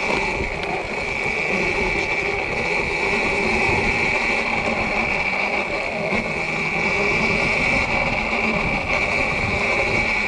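Sur-Ron electric dirt bike under way: a steady high whine from its electric motor and drive, over a broad low rush of noise.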